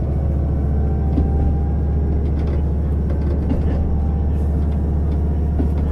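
JR Hokkaido KiHa 150 diesel railcar running: a steady low engine and rolling rumble with a faint whine rising slowly in pitch, and a few light clicks.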